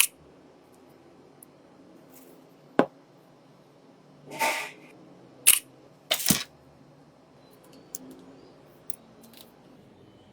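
A handful of sharp clicks and taps from small hard parts and hand tools being handled on a workbench, with one short scraping rustle about halfway through.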